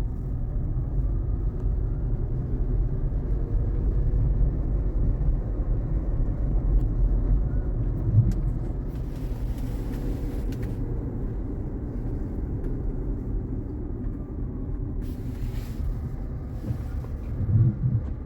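Steady tyre and road rumble heard inside the cabin of a Jaguar I-Pace electric car driving on a rain-wet road, with no engine note. A brief hiss rises over it twice, about nine and fifteen seconds in.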